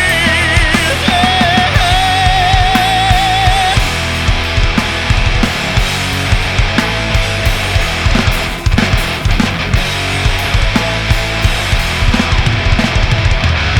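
Rock band playing live: a held, wavering lead note over the band for the first few seconds, then a dense instrumental passage of electric guitars and bass with steady drum hits.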